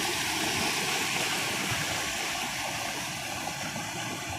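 A stream swollen by heavy rain, its fast floodwater rushing with a steady noise that grows slightly fainter toward the end.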